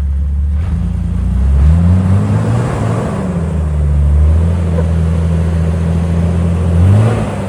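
Jeep engine running at low revs on a rock trail, its pitch rising and falling several times: it climbs around two and three seconds in and again near the end.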